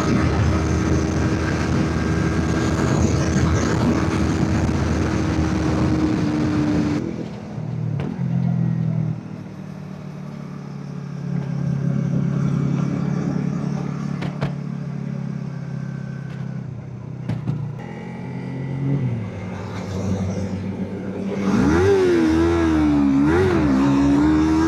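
Motorcycle engine heard from the rider's seat, running at a steady speed with wind rush. About seven seconds in it is suddenly eased back to a low, quieter engine note, and near the end it revs up again with the pitch rising and wavering.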